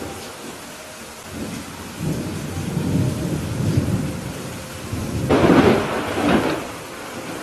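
Steady rain with thunder: a low rumble builds from about two seconds in, breaks into a louder crackling peal about five seconds in, then rolls away.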